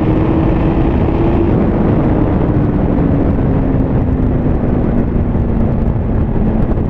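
Liter-class motorcycle riding at speed: a loud rush of wind over the microphone, with a steady engine note that slowly drops in pitch as the bike eases off.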